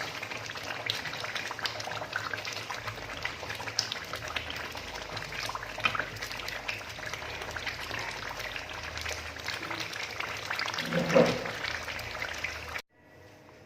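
Liquid bubbling in a cooking pot, a continuous crackling patter of small pops, with a brief louder sound near the end before it cuts off abruptly.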